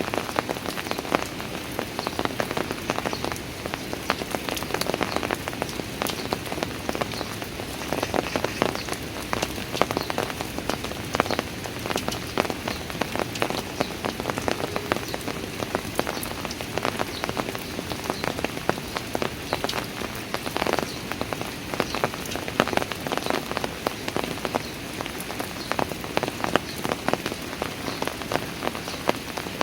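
Steady rain falling on outdoor park stairs, with many close individual drops striking the surface.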